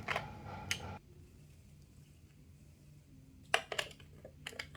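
Small plastic clicks and taps as a magnetic letter is handled and pushed into a LeapFrog Fridge Phonics reader, a cluster of them about three and a half seconds in. Before that, a faint hum from the toy's speaker stops about a second in.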